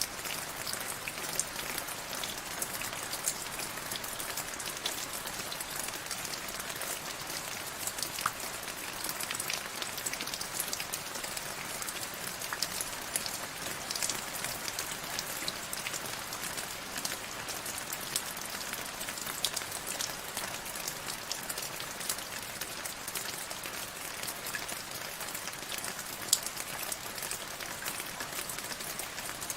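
Steady rain falling, a constant hiss with many separate drops ticking on a hard surface.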